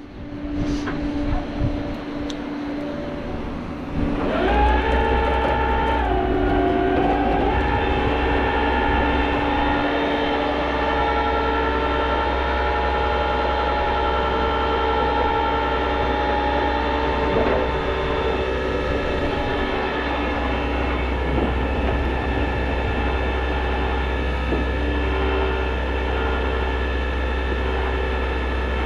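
Flatbed tow truck's hydraulic winch running to pull a car up the bed. A whine of several tones rises about four seconds in and then holds steady over the low rumble of the truck's engine.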